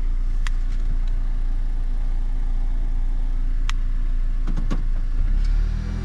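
Car engine idling steadily, with two sharp clicks and some knocking about three quarters of the way through; a new steady hum joins near the end.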